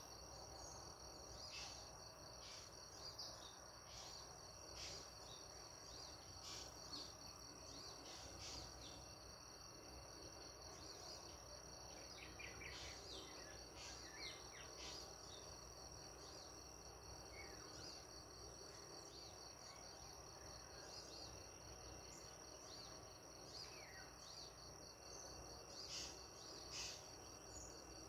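Faint, steady high-pitched insect trilling, with scattered short bird chirps and a few quick falling bird calls around the middle of the stretch and again a little later.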